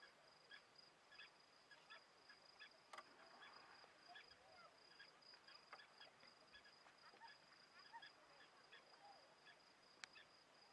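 Faint outdoor bird calls: short chirps repeating about twice a second over a steady high-pitched whine, with two sharp clicks, one about three seconds in and one near the end.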